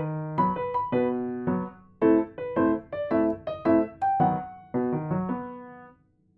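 Background piano music: a light melody of separate struck notes, each fading away, with a short pause near the end.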